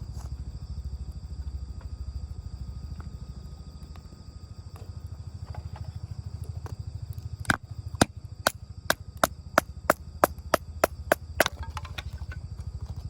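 Firewood being chopped or split for a small campfire: a run of about twelve sharp, evenly spaced strikes into wood, roughly three a second, starting about halfway through.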